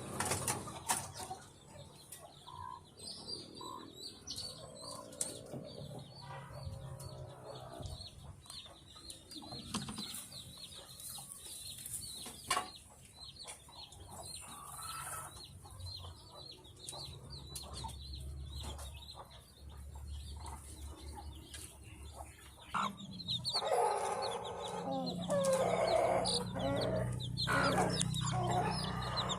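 Chickens clucking, with scattered short calls that grow louder and busier in the last six seconds or so.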